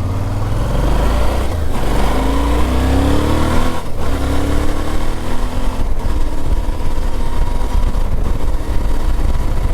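Adventure motorcycle pulling away and accelerating on a gravel road, its engine note rising in steps with short breaks at gear changes about two and four seconds in, then running steadily.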